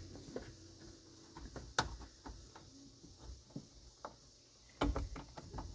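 A few scattered sharp plastic clicks and taps as a tool works the plastic push-pin clips out of a pickup's door trim panel. The loudest click comes about two seconds in, with a cluster of clicks near the end.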